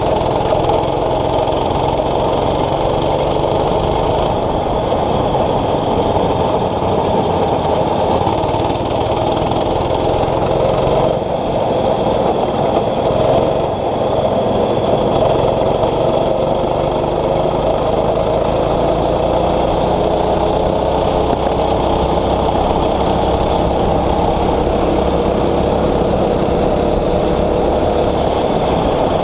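6.5 hp kart engine running at race pace, its revs rising and falling slowly and repeatedly, with a brief drop about eleven seconds in.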